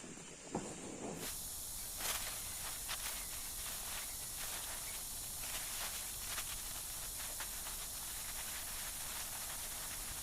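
Steady heavy rain hiss with many small drop ticks, after about a second of gusting wind noise that cuts off abruptly.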